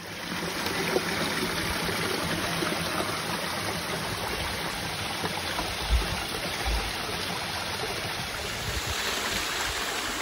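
Steady rush of running water, with a couple of short low thumps about six seconds in.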